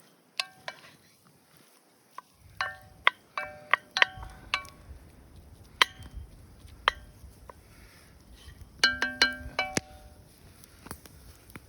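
Metal clinks ringing off a glazed cast iron pan as it is turned on the fire and its contents stirred, in irregular clusters of sharp ringing taps.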